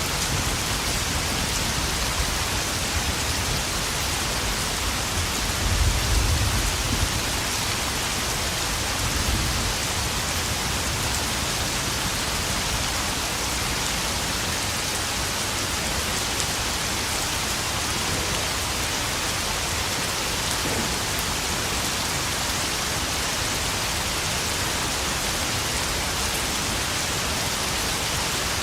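Steady heavy rain pouring and pattering on puddles. A low rumble of distant thunder swells about six seconds in and briefly again near ten seconds.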